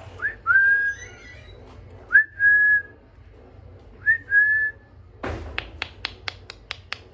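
Pet parrot whistling three times, each whistle a short upward flick followed by a held steady note. Then, about five seconds in, a fast even run of sharp clicks begins, about four or five a second.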